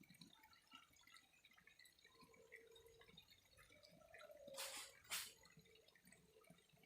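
Faint water trickling and dripping, with many small scattered droplet sounds. A little past the middle come two short hissing bursts about half a second apart, just after a faint held tone.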